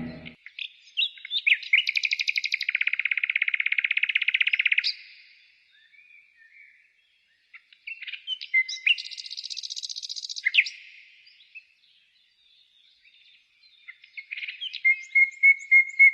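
Songbirds singing: a long rapid trill from about 1.5 to 5 seconds in, scattered chirps around 8 to 10 seconds, then a quick run of chirps near the end, with short quiet gaps between.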